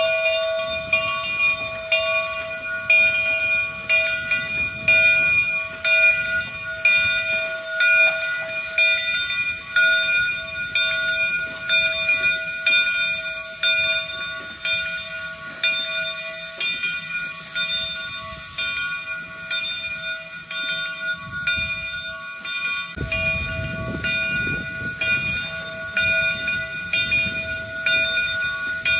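A steam-hauled train rolling slowly past behind the 2-8-0 locomotive Southern 401: rail cars clicking and rumbling over the track while steam hisses. A steady high whine runs underneath, and the low rumble grows louder about three-quarters of the way through.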